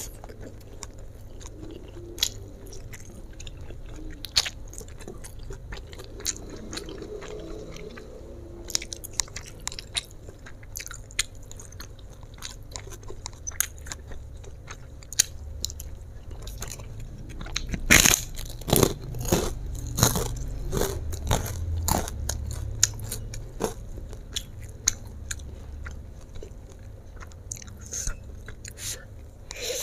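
Close-up chewing and mouth sounds of a person eating stir-fried flat rice noodles, with scattered sharp clicks. About eighteen seconds in comes a run of louder, crunchier bites lasting a few seconds.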